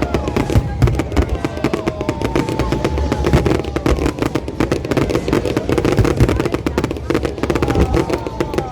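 Fireworks crackling: a dense, rapid string of small pops that keeps going without a break.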